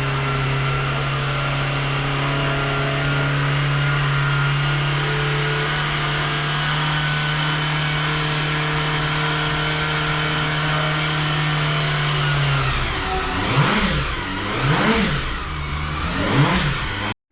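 Honda CBR250RR MC22 inline-four engine running at a steady held speed, then revved three times near the end, each rev rising and falling in pitch.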